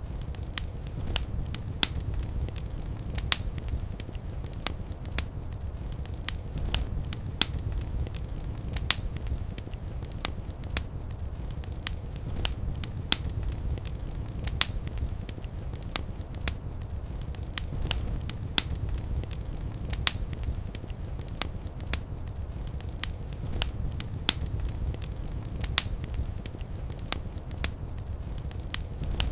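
Fireplace fire crackling, with irregular sharp pops several times a second over a steady low rumble of the flames.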